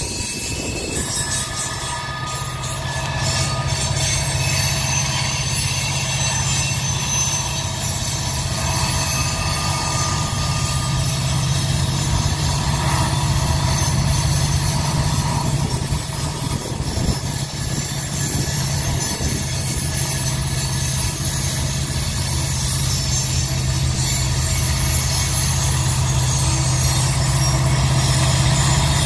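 A freight train rolling around a tight curve, the diesel locomotives' engines making a steady low drone that grows gradually louder as Norfolk Southern locomotives approach near the end. Thin, steady high squealing from the wheels runs over the drone.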